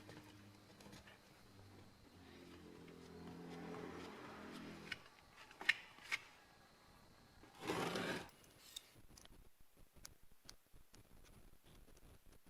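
Faint handling sounds of small-part work: a low hum for the first five seconds, two light clicks, and a short scrape about eight seconds in.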